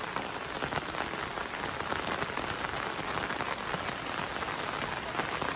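Heavy rain falling on surfaces, a dense, steady hiss of countless drops.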